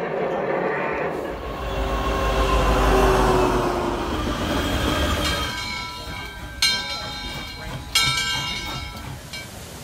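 Montage of railway sounds. First a diesel freight train rumbles past with its horn sounding, the horn's pitch falling as it goes by. Then a steam locomotive's whistle sounds as a steady chord of high tones, with two sharp loud blasts about a second and a half apart.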